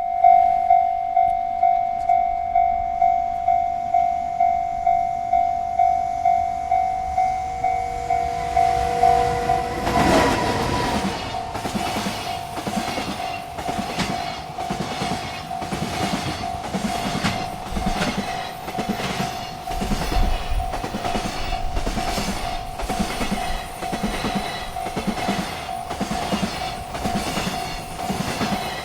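Railroad crossing bell ringing steadily about twice a second. About ten seconds in, a freight train arrives and its cars roll past with a regular clickety-clack of wheels over rail joints while the bell keeps ringing.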